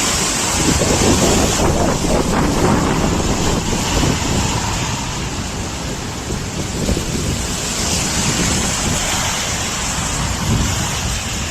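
Strong blizzard wind blowing hard, buffeting the microphone with a steady, gusting rumble.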